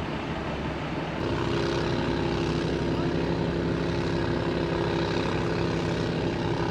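A large engine running steadily, its drone stepping up in level with a new higher hum about a second in.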